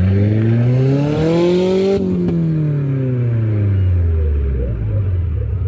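Modified off-road truck's engine revving: its pitch climbs steadily for about two seconds, then drops back to a low rumble.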